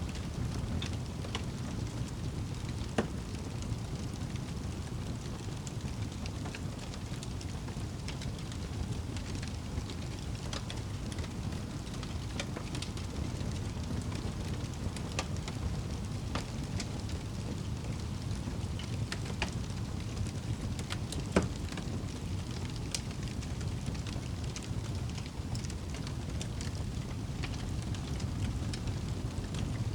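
Wood fire crackling in a fireplace: a steady low rumble of burning with frequent small pops and snaps, two louder pops about 3 seconds and 21 seconds in.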